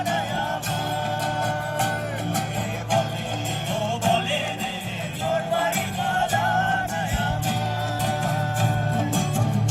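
Live Bengali folk song: voices singing a wavering melody over plucked-string accompaniment with a regular percussion beat.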